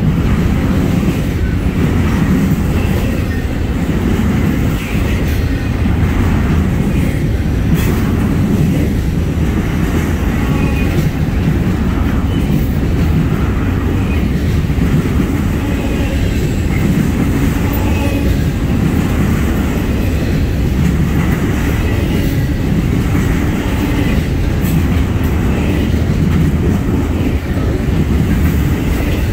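Double-stack intermodal train's loaded container well cars rolling past at close range: a steady heavy rumble of wheels on rail, with a few sharp clicks.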